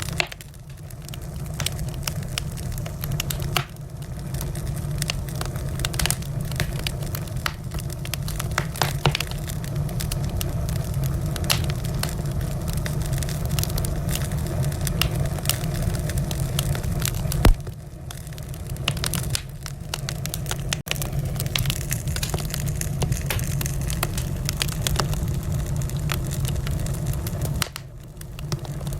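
Wood fire in a fireplace crackling, with a steady low rumble under frequent small pops and snaps. One louder, sharper pop comes a little past halfway through.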